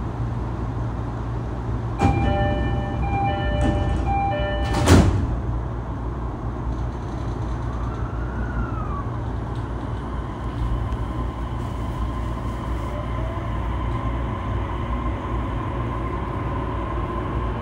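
Inside a JR East E233-3000 series train, the door chime plays from about two seconds in and the sliding doors shut with a loud thud near five seconds, over the steady low rumble of the carriage. From about ten seconds in a faint whine rises slowly in pitch, as the Hitachi IGBT-VVVF inverter and MT75 traction motors start the train moving.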